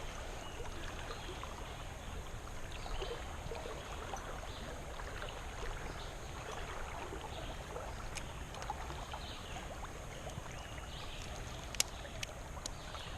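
Creek water flowing steadily, with a few small sharp clicks near the end.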